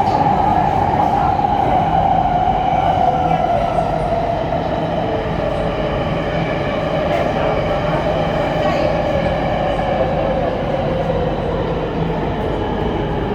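Metro train running, its traction motor whine falling slowly and steadily in pitch as the train slows, over a continuous rumble of wheels on rail.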